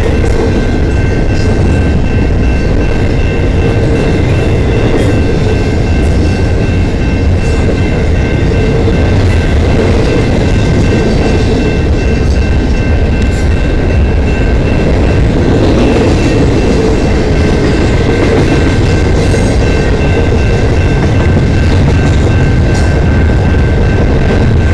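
Double-stack container cars of a freight train rolling past close by: a loud, steady rumble of wheels on rail with scattered clicks from the rail joints and a few steady high-pitched whines over it.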